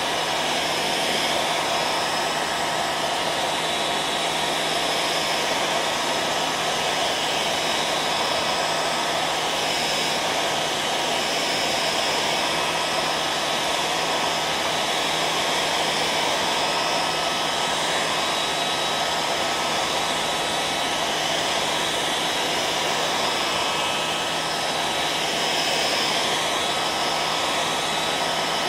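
Hair dryer running steadily: an even rush of blown air with a faint, constant whine.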